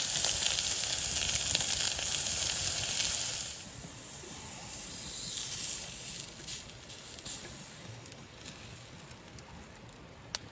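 Meat sizzling on a hot iron griddle plate over a wood fire. The sizzle is loud at first and drops off sharply about three and a half seconds in, leaving a fainter sizzle with a few small clicks.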